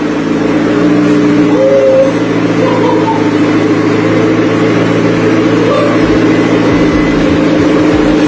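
McLaren sports car's engine idling steadily inside a garage, its pitch holding level.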